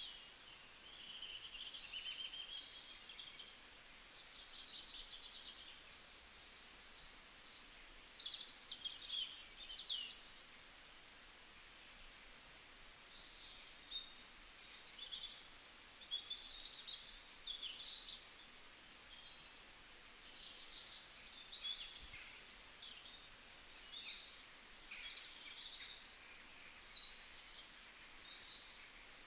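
Small birds chirping and trilling on and off, many short high calls, over faint steady background hiss.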